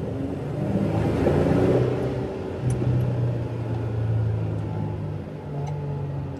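Toyota FJ40 Land Cruiser's engine heard from inside the cabin while driving. It swells under acceleration about a second in, then settles to steady running.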